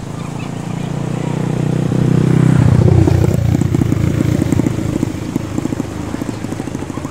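A vehicle engine passing close by: it grows louder, peaks about three seconds in with a drop in pitch, then fades away with a fast, even pulsing.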